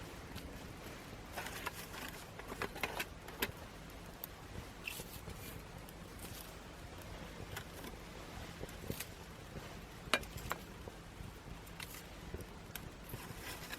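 Small twig fire burning in a homemade aluminium fire stand, crackling with irregular sharp pops over a steady low hiss, a run of pops a couple of seconds in and one loud pop about ten seconds in.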